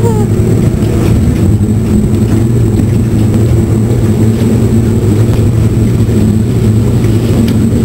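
Boat's outboard motor running steadily at low speed, a constant even hum as the boat moves slowly forward.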